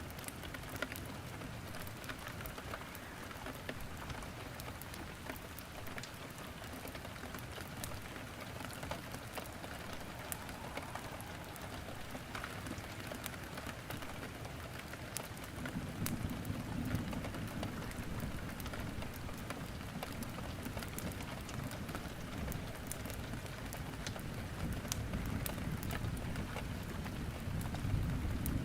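Steady rain falling, mixed with wood crackling in a fireplace in sharp scattered snaps. A low rumble comes up about halfway through and stays.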